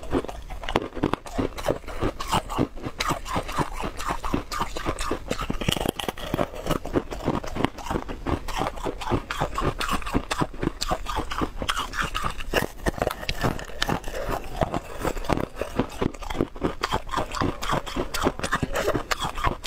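Biting and chewing of a hard, crisp frozen block: a dense run of crunches, several a second, with no pause.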